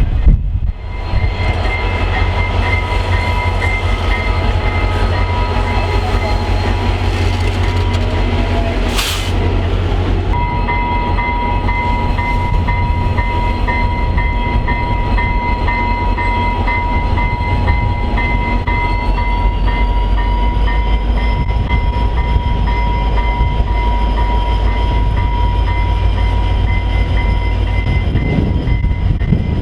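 A train passing close by: a loud, steady rumble of wheels on the rails with several steady high ringing tones above it, which rise slightly in pitch about two-thirds of the way through.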